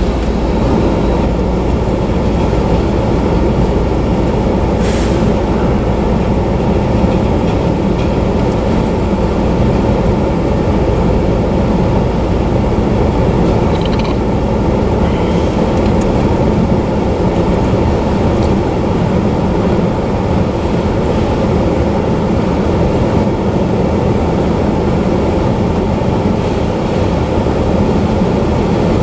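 Autorack freight cars rolling past at close range, a steady rumble of steel wheels on the rails.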